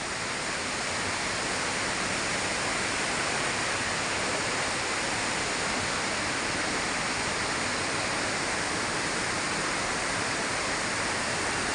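Steady rushing of water, an even hiss that holds without change.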